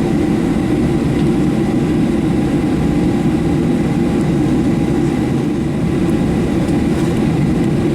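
Steady cabin noise inside a Boeing 737-700 taxiing after landing: its CFM56 engines at idle and the cabin air system make a low, even rumble with a faint steady whine.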